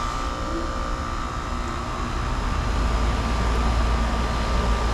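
Outdoor air conditioner condenser unit starting up and running with its newly replaced run capacitor and fan motor: a steady hum over a low rumble, building in level over the first few seconds.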